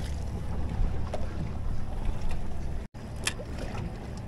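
Steady low rumble and hiss of a small boat drifting at sea, wind and water on the microphone, with a couple of faint clicks; the sound drops out for an instant about three seconds in.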